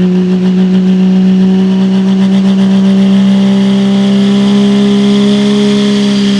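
Open four-wheel-drive pulling truck's engine running flat out at high revs, one loud steady tone whose pitch creeps slowly upward.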